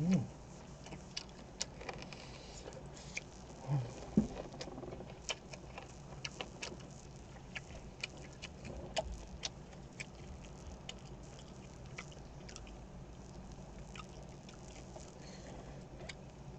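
A person chewing grilled pork belly close to the microphone: irregular wet mouth clicks and smacks, with a brief low hum about 4 seconds in.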